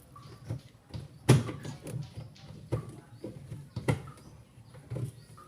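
Sharp plastic clicks and knocks from a twin-tub washing machine's drain lever and fittings being pulled and worked, about five distinct knocks with the loudest about a second in.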